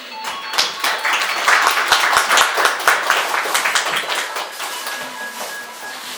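Audience applauding, swelling over the first two seconds and then dying away.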